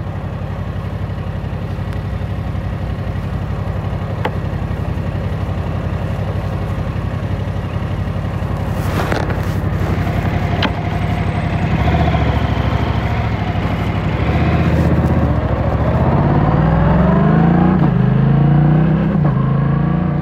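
Yamaha R7 motorcycle's parallel-twin engine running steadily at low revs, then accelerating hard in the last few seconds, the revs climbing several times with a drop between each climb as it pulls up through the gears.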